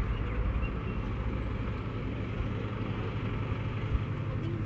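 Steady low rumble and hiss of a passenger train running, with no sharp events.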